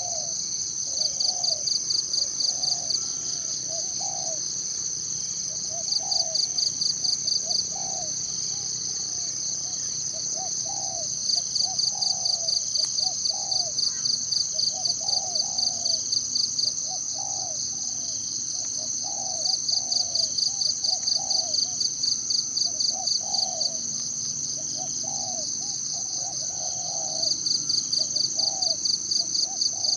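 Forest ambience: a bird repeating a short, low call note over and over, over a steady high-pitched drone that swells into rapid pulsing trills in bouts every few seconds.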